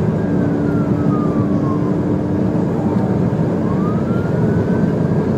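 Police car siren on a wail setting, slowly falling and then rising again in pitch, over loud steady road and engine noise from a car at high speed.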